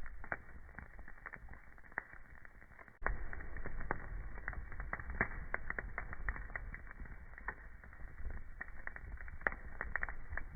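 Burning wood fire crackling, with irregular snaps and pops over a low rumble of flames. The whole sound gets louder suddenly about three seconds in.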